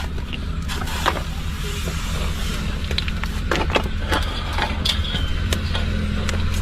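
An engine running steadily with a low, even hum, with scattered clicks and knocks over it.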